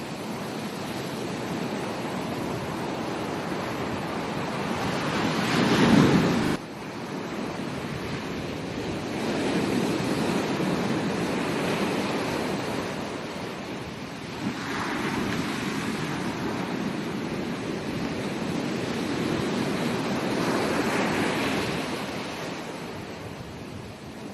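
Ocean surf breaking and washing up a beach, swelling and ebbing every few seconds. The loudest surge comes about six seconds in and cuts off suddenly.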